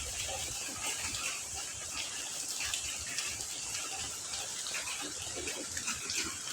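Heavy rain falling steadily: a dense hiss with many separate close drops striking and splashing throughout.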